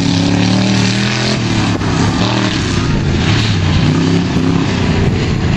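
Loud competition vehicle engines running and revving, pitch rising and falling.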